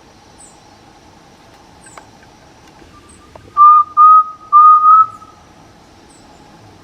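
A bird's clear whistled call: a faint note about three seconds in, then four loud notes at one pitch, each rising slightly, over about two seconds. Faint high chirps recur now and then in the background.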